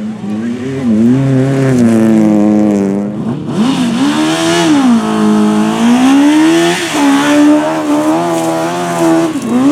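Rally car engine revving hard, its pitch climbing and falling several times, with sharp drops about three seconds in, about seven seconds in and near the end.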